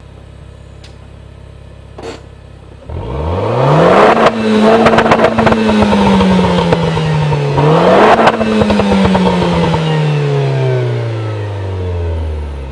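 Renault Clio RS Trophy engine with an Akrapovic exhaust idling, then revved twice, with sharp crackles from the exhaust near each peak. The engine then winds slowly back down toward idle near the end.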